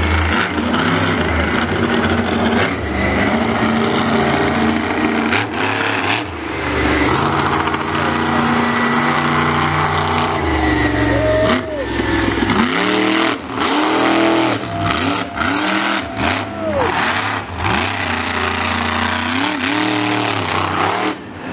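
A loud vehicle engine running hard at steady speeds, then revved in a run of short throttle blips from about 11 seconds in, each rising and falling in pitch.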